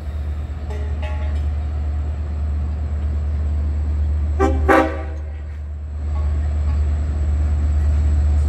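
Long Island Rail Road diesel train approaching, a steady low rumble that grows louder over the last few seconds, with one short horn blast about four and a half seconds in.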